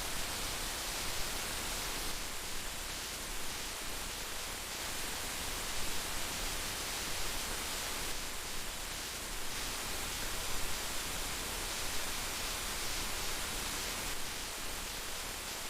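Heavy rain falling as a steady, dense hiss, with no lulls or other sounds.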